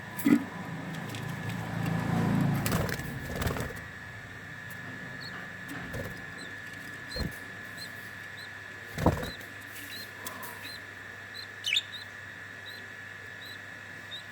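Budgerigars stirring in their cage: rustling and wing flutter, a few sharp knocks, and faint short high chirps repeating about twice a second through the middle, over a steady high-pitched tone.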